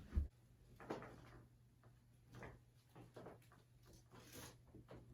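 A low thump at the start, then faint scattered light clicks and rustles.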